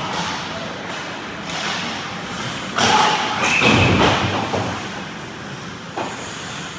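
Ice hockey play near the net: a sudden loud burst of noise about three seconds in, with a heavy thud against the rink boards, then a single sharp knock near the end.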